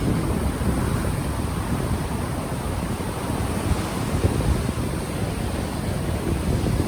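Ocean surf washing in steadily, with wind buffeting an unshielded microphone as a rumbling flutter beneath it.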